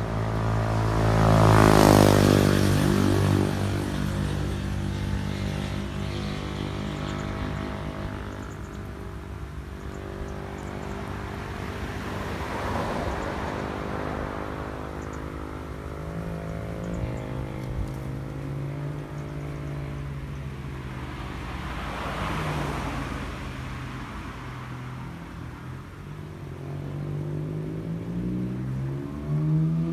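Motor vehicles passing one after another, each engine swelling and then dropping in pitch as it goes by. The loudest pass comes about two seconds in, two more follow near the middle and about two-thirds of the way through, and another approaches near the end.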